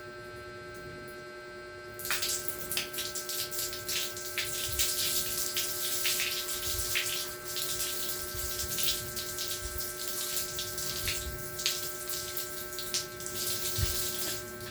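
Running water splashing, starting about two seconds in, as hair is rinsed under the water, with a steady electrical hum underneath.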